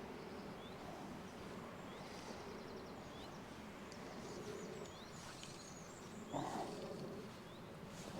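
Small birds giving short, high, repeated chirps about once a second over a steady background rush of river water. About six seconds in there is one brief, louder sound.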